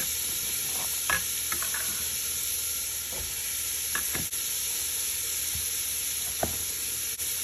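Diced vegetables (carrot, celery, onion, garlic) sizzling steadily as they sauté in olive oil in a pot, with a few light knocks of a stirring utensil against the pot.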